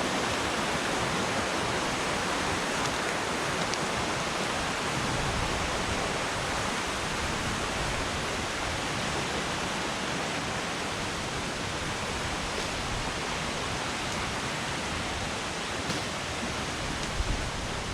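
Flooded river current rushing steadily, the water running high and fast. A few low bumps near the end.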